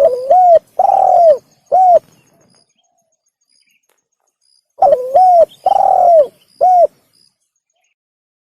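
Spotted dove (tekukur) cooing: two phrases of four short notes each, about five seconds apart. It is a recorded lure call used to draw doves in.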